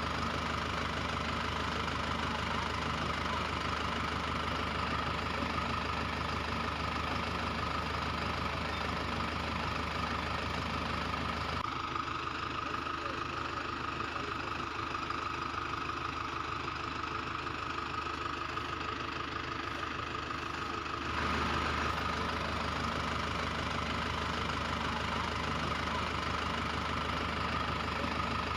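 Tractor engine idling steadily. Its low rumble drops away about 12 seconds in and comes back about 21 seconds in.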